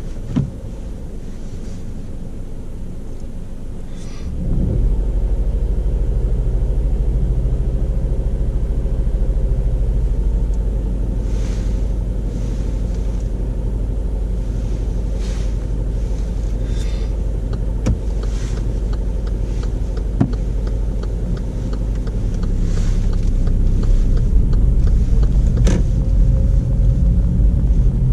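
Petrol car heard from inside the cabin: low engine and road rumble that rises sharply as the car pulls away about four seconds in, then runs on steadily and grows louder near the end, with a few faint knocks.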